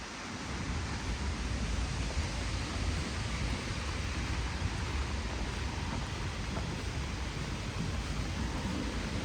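Heavy rain falling steadily, an even hiss, with a low rumble underneath.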